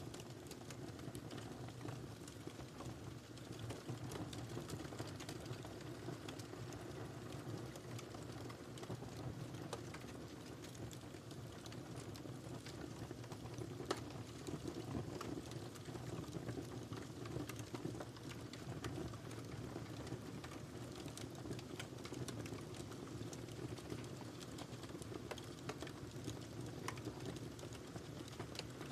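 Wood fire crackling, with frequent small irregular pops over a low steady rumble of burning, and one sharper pop about halfway through.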